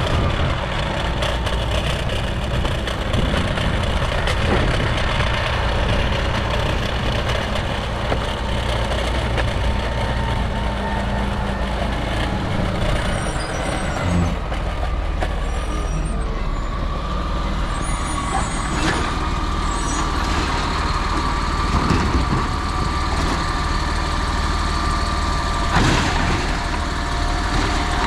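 Autocar refuse truck with a Labrie Automizer automated side-loader body, its diesel engine running steadily with a continuous whine above the rumble. Two short sharp sounds break in during the second half.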